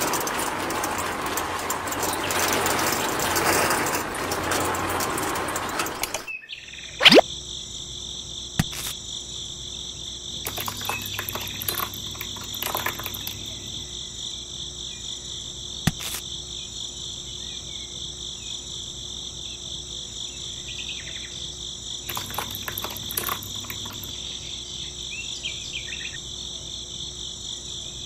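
A miniature toy concrete mixer runs with a loud, even rushing churn for about six seconds, then cuts off abruptly. After that a steady chorus of crickets chirps, with a sharp rising swish about seven seconds in and scattered small knocks and scrapes.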